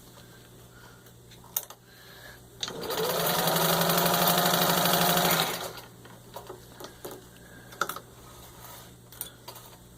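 1951 Singer 15-91 sewing machine with its gear-drive motor speeding up, running fast for about three seconds while stitching through four layers of medium leather, then stopping. A few light clicks before and after the run.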